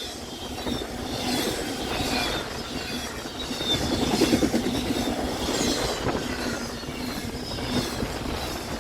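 CSX freight train passing close by at speed, about 50 miles an hour: a steady rush and rumble of wheels on rail, with short high-pitched wheel squeals scattered through it. The sound swells to its loudest about four seconds in.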